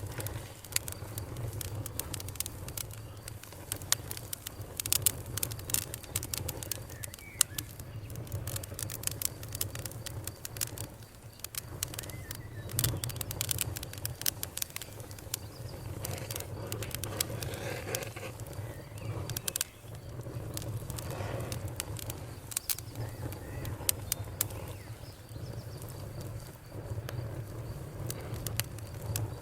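Bonfire crackling, with frequent sharp pops and snaps over a low steady rumble of the flames. Crickets chirp faintly in a steady high tone behind it.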